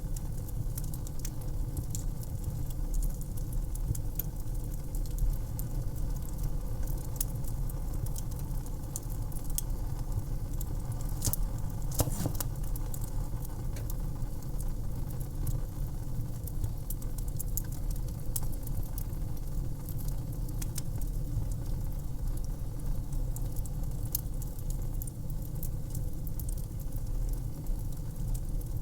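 Fire burning in an outdoor fireplace: irregular crackles and sharp pops over a steady low rumble, with a few louder snaps near the middle.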